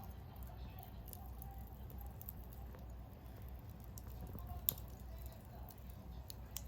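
Wood fire burning in a homemade stainless-bowl secondary-combustion fire pit: faint irregular crackling, with a sharp pop about four and a half seconds in, over a low steady rumble.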